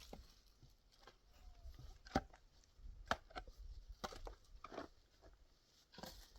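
A few scattered light knocks and clicks, the loudest about two and three seconds in, with a faint short pitched call about a second and a half in.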